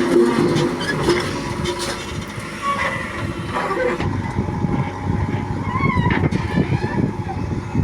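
Heavy diesel engine of earthmoving machinery running steadily, with a change in its sound about four seconds in.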